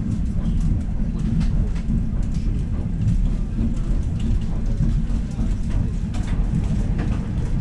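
Electric commuter train carriage running at speed, heard from inside: a steady low rumble with many short sharp clicks and rattles.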